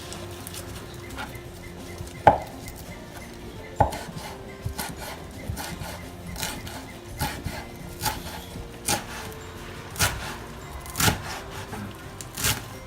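Knife chopping fresh parsley on a cutting board: sharp, separate knocks about once a second, irregular in spacing.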